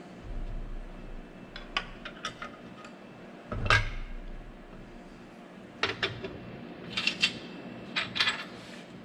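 Metal parts clinking and clanking while being handled: a string of separate knocks and clicks, the loudest a heavier clank a little before the middle, with a few quick clicks in pairs near the end.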